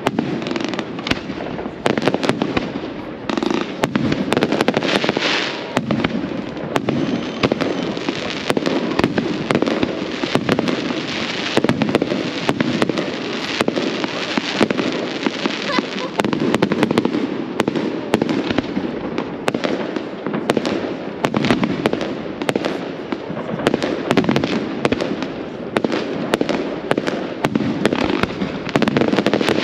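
Fireworks display: a dense, irregular run of bangs and crackles from exploding shells, with no pause.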